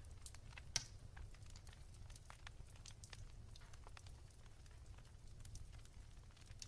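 Wood fire crackling softly: a scatter of small snaps and pops, with one sharper pop a little under a second in, over a low steady rumble.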